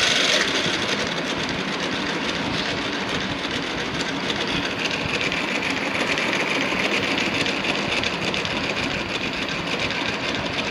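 Brushless (BLDC) motor driving a 3D-printed PLA gearbox, a steady whir with fast gear clatter that eases off a little about half a second in.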